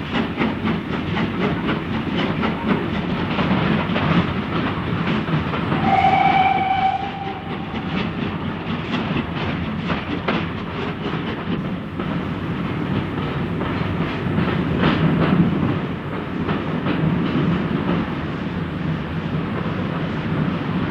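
A steam train running, its wheels clicking steadily over the rail joints, with one short whistle blast about six seconds in.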